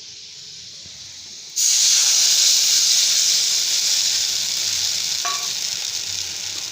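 Water poured into a kadai of hot oil and fried onions: a faint frying sizzle, then about a second and a half in a sudden loud hiss of sizzling steam that slowly dies down.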